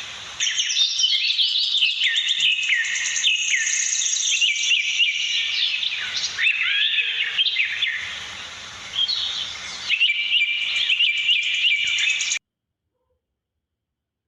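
Pet budgerigars chattering and warbling, a fast run of high chirps and twitters with a short lull a little past the middle. The sound cuts off abruptly near the end.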